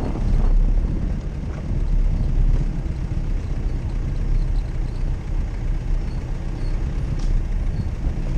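Jeep Cherokee driving off-road, its engine giving a steady low rumble.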